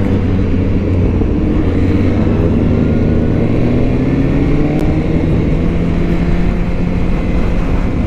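Motorcycle engine running under way, its pitch climbing slowly through the middle as the bike gathers speed, with rushing wind noise.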